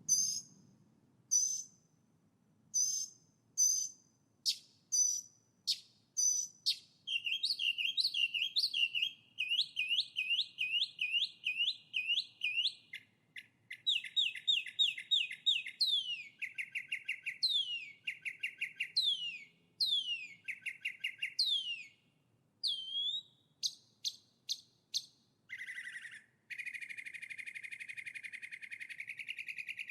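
Songbirds singing: sharp separate notes about once a second at first, then fast repeated trills and sweeping whistled phrases, ending in a long buzzy trill over the last few seconds.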